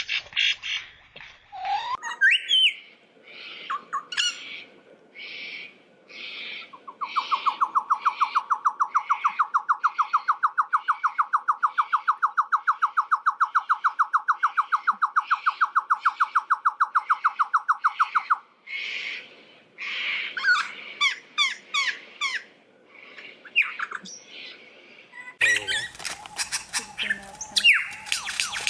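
A bird running through a varied series of calls: a string of evenly spaced notes, then a long run of rapid, evenly pulsed notes at about six a second, lasting about ten seconds, then mixed whistles and gliding notes. A harsh, noisy stretch comes near the end.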